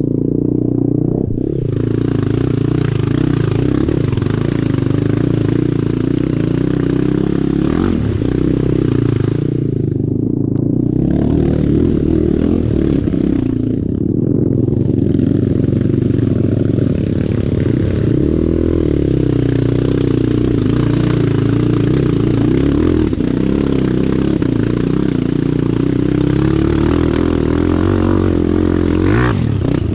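Dirt bike engine working hard off-road, revving up and down under load without a break. A higher clattering hiss rides over it and drops out briefly twice, about ten and fourteen seconds in, when the throttle eases.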